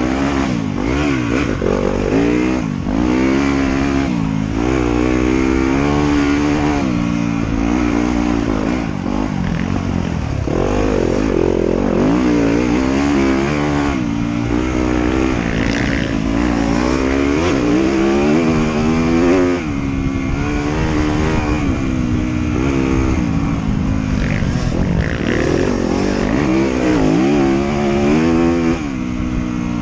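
Trail motorcycle engine revving up and dropping back again and again as the rider works the throttle through the gears.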